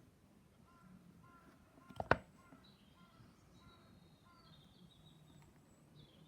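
Faint songbirds chirping: a run of short repeated chirps, then higher whistled notes, with a falling note near the end. Two sharp clicks about two seconds in are the loudest sound.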